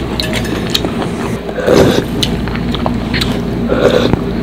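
Close-miked eating sounds: chewing and mouth clicks while boiled pork and broth are eaten, with two louder mouth noises about two seconds in and near the end. A steady low hum runs underneath.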